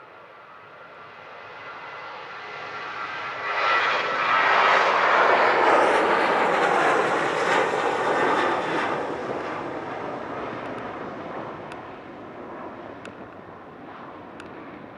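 Jet airliner passing close by: its engine whine builds, grows into a loud rush about four to nine seconds in, then fades away.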